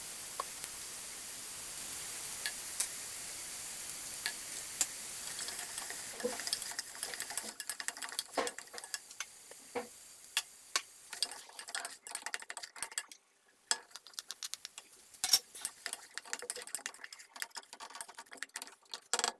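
Onion, fresh ginger, garlic and mushrooms frying in oil in a pot with a steady sizzle, while a utensil stirs them, scraping and clicking against the pot. The clicks grow frequent from about seven seconds in as the sizzle fades.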